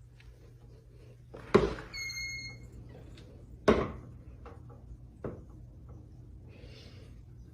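Two heavy thumps about two seconds apart, with a short high-pitched squeak just after the first and a lighter knock about a second and a half after the second.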